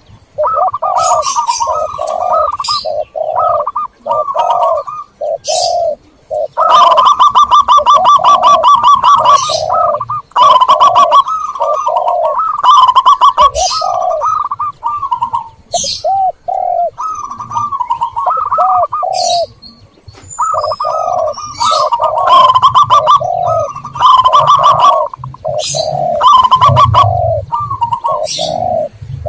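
Zebra doves and spotted doves cooing in runs of short, repeated, rhythmic notes, with brief pauses, over higher chirping notes, played as a dove-calling lure.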